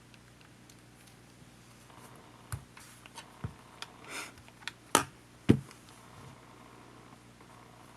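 Small clicks and taps of tools and plastic parts being handled while a compact camcorder is taken apart, with a brief scrape midway and two sharper knocks just after it.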